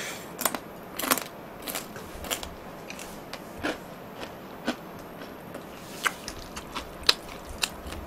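A person chewing a mouthful of food close to the microphone, with irregular short sharp clicks from the mouth, a dozen or so.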